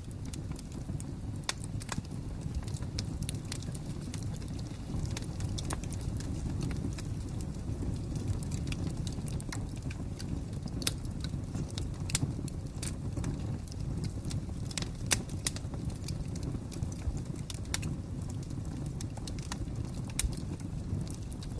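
Wood fire crackling: a steady low rumble of burning with sharp pops and snaps at irregular intervals, a few louder snaps in the middle.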